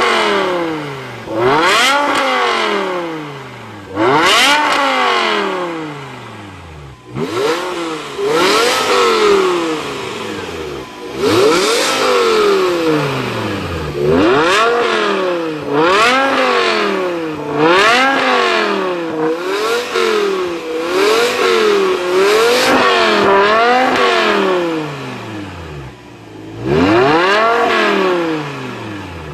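BMW M6 engine revved repeatedly through an iPE variable-valve exhaust system. Each rev rises sharply and falls straight back, with a run of quick short blips in the middle.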